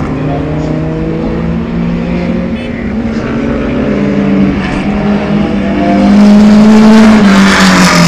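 Classic racing car engines at full throttle, getting louder as a car approaches. Its engine note drops in pitch as it passes near the end.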